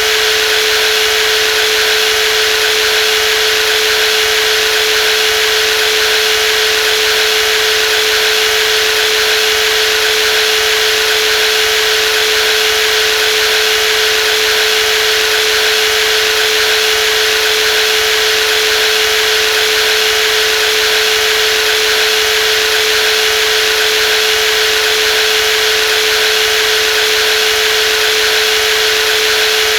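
Brushless jigsaw running continuously at steady speed: a constant motor whine over a bright, hissing mechanical rush, with no change in pitch or level.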